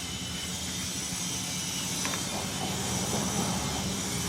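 Steady low hum with hiss in a home garage, with a faint metallic click about two seconds in as small clutch parts are handled.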